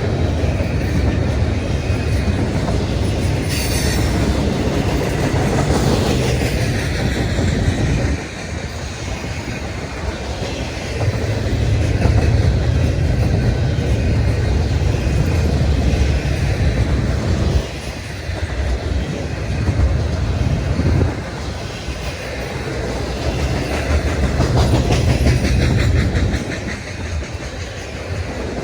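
Freight train cars rolling past, their wheels clacking over the rail joints in a steady rumble that swells and eases every few seconds. A brief high wheel squeal comes about four seconds in.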